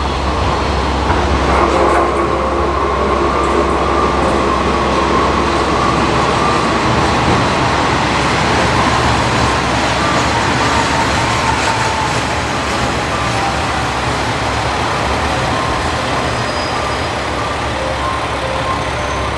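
Diesel railcar running past on the station track: a steady drone from its engine under the noise of wheels on rail, with a faint tone that sinks slowly in pitch partway through.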